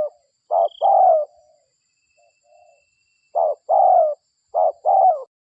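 Spotted dove (derkuku) cooing: three phrases, each a short coo followed by a longer coo that falls in pitch, with a short gap after the first phrase. The last phrase cuts off abruptly just before the end.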